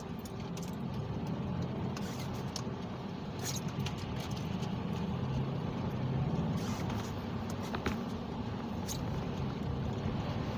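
Car driving on snowy roads, heard from inside the cabin: a steady engine and tyre rumble, with a few faint clicks scattered through it.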